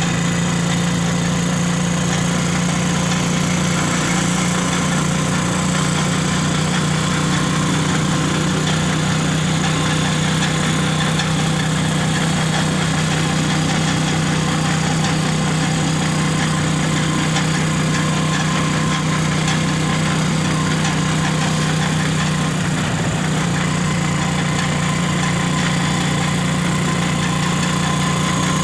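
Vehicle engine running at a steady pace while on the move, an even low hum that neither rises nor falls.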